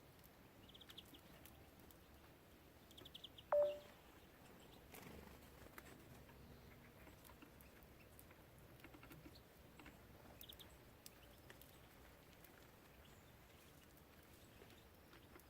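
Small songbirds at a garden bird feeder: faint scattered pecking and tapping with a few short, high trilled chirps. About three and a half seconds in comes one brief, much louder sharp sound with a short tone.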